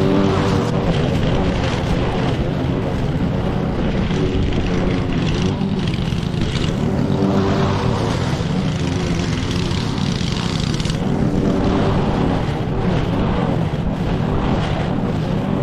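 Petrol lawn mower engine running under load through thick grass, its note swelling and easing every few seconds.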